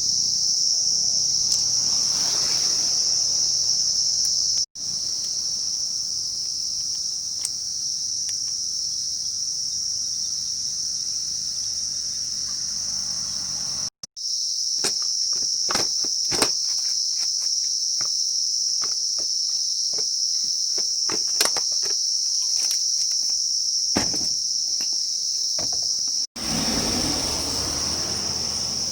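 Crickets chirring steadily at a high pitch, with scattered clicks and light knocks through the middle part. The sound drops out briefly three times.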